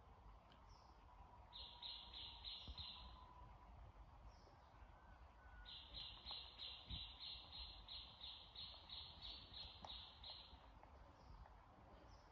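Faint bird chirping in quick, evenly spaced notes, about three a second: a short run of five about a second and a half in, then a longer run of about fifteen through the middle.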